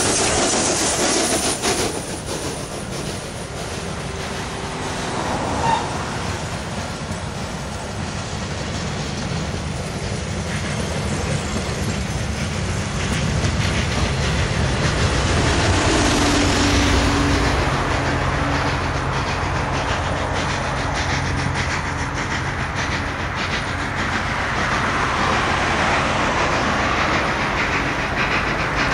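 Steam excursion train running past on the track, its wheels clattering on the rails, mixed with the steady noise of cars and motorcycles driving by on the road alongside.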